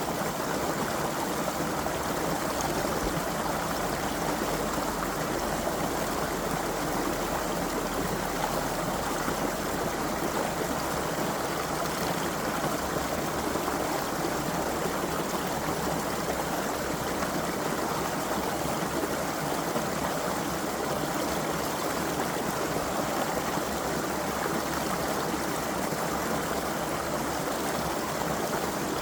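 A creek flowing and babbling over stones, a steady rush of running water.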